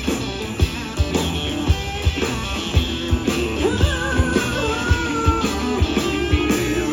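A live blues band plays an instrumental passage: electric guitar over bass and a steady drum beat, with a guitar line bending up and down in pitch in the middle.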